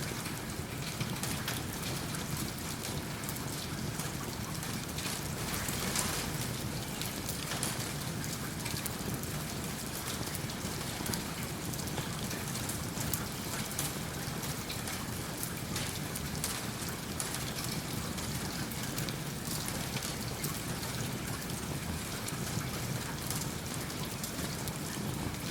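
Steady rain, with many small crackles and pops that fit a wood fire burning in a fireplace.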